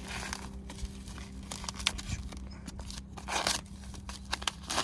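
Plastic meat packaging crinkling and tearing as a pack of pork is opened, with sharp crackles and a longer rustle about three and a half seconds in. A faint steady hum underneath stops near the end.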